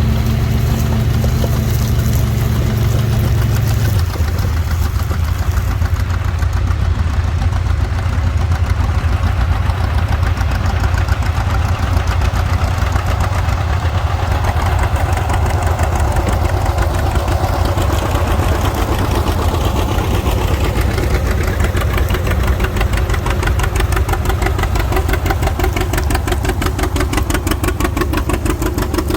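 Farm tractor engine running steadily with an even firing beat; a strong low hum drops out about four seconds in.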